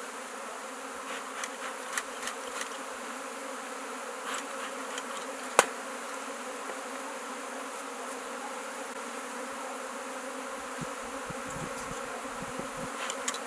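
A swarm of honeybees buzzing in a steady drone, stirred up as they are brushed and shaken into a hive. A few light clicks and one sharp knock about five and a half seconds in.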